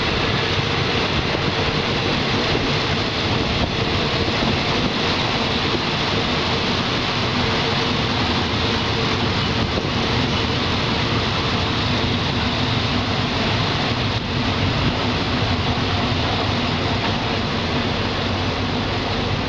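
Steady rumble and rushing noise of a passenger train running at speed, its wheels on the rails, heard at a carriage window.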